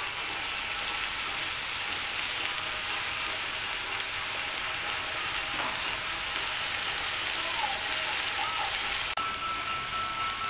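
Vegetable pieces and peas frying in hot oil in a pan: a steady, even sizzle. About nine seconds in, a thin steady high tone joins it.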